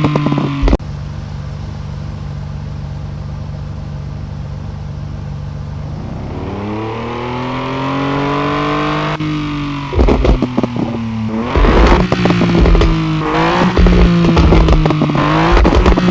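BMW E30 engine through a crackling aftermarket exhaust: it settles to a steady idle, rises in one slow rev and drops back, then is blipped hard several times with sharp exhaust crackles on each blip near the end.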